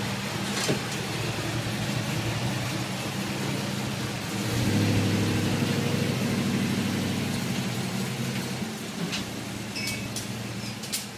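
Jensen Interceptor's Chrysler V8 running at low speed as the car moves off. It gets louder about four and a half seconds in under a little throttle, then eases back near the end.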